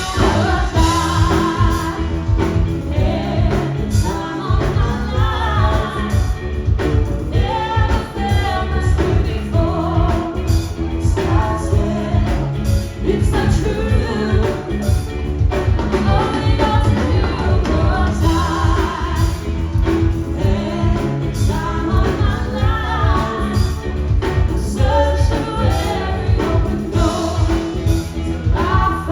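A live stage performance of a song: a singer backed by a band, with a steady beat and bass line.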